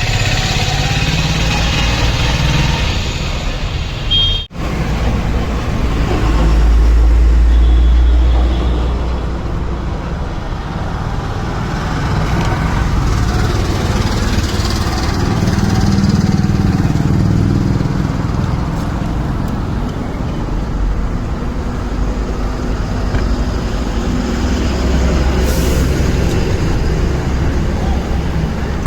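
Motor vehicle engines and road traffic running steadily, with a deep rumble that swells about six seconds in and again past the halfway point; the sound briefly cuts out about four seconds in.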